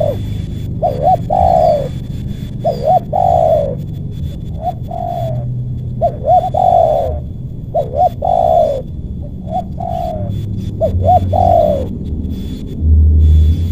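Spotted dove (tekukur) cooing: a repeated phrase of two quick notes and a longer falling coo, about seven times. A low rumble rises under it near the end.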